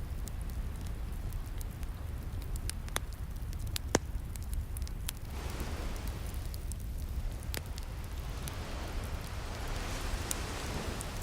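Wood fire crackling with scattered sharp pops, the loudest about four seconds in, over ocean waves washing in with a low steady rumble; a wave swells about five seconds in and another near the end.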